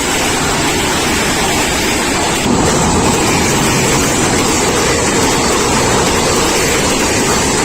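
A train passing close at speed: a loud, steady rush of wheel and track noise, stepping up a little about two and a half seconds in.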